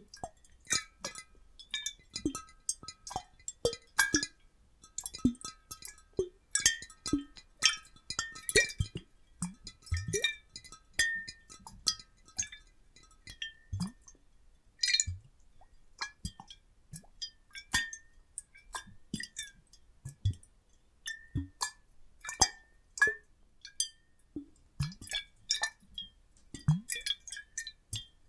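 Water sloshing and plopping inside glass bottles, with frequent light glass clinks that ring briefly, in an irregular pattern.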